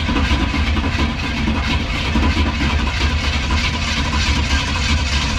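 Starter cranking a NASCAR small-block V8 over steadily, with an even, rapid chug, without it firing; it turns freely, a sign the engine is not locked up.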